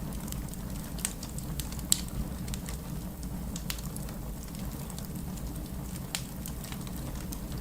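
Wood campfire burning, with scattered sharp crackles and pops over a low, steady rumble. The loudest pop comes about two seconds in.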